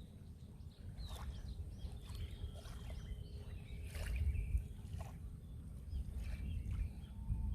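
Sea waves washing in: a low rumbling surge that swells about four seconds in and builds again near the end, with scattered small clicks of water and stones.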